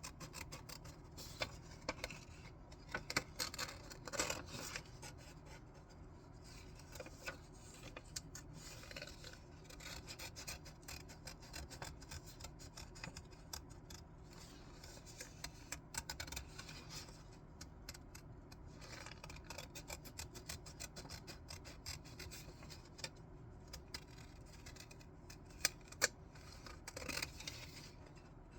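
Scissors cutting paper: a long run of short snips at an uneven pace, with two sharper snips a couple of seconds before the end.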